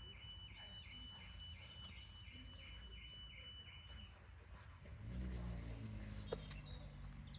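Faint outdoor ambience: a high, thin chirp repeating steadily about three times a second for the first four seconds, then a low hum from about five seconds in, with a single click near the end.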